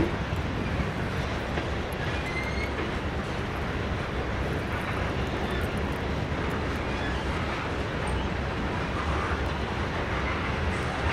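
Norfolk Southern freight train's covered hoppers and tank cars rolling past, a steady rumble of steel wheels on rail with a few brief high squeals about two seconds in.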